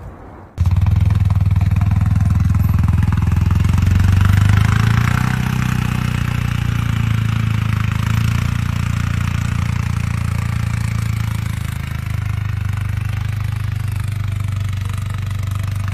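A vehicle engine running steadily at a constant pitch. It cuts in abruptly about half a second in, with a swell of extra noise about four to five seconds in.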